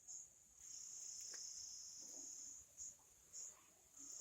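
Faint, high-pitched insect chirring: a steady trill for about two seconds in the middle, with short separate bursts before and after it.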